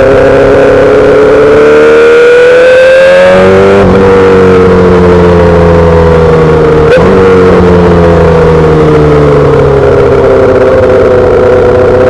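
2008 Yamaha R6's inline-four through a full SC-Project exhaust, revving up with a rising pitch for about four seconds. The note then changes sharply, and the pitch falls steadily as the bike slows, levelling out near the end.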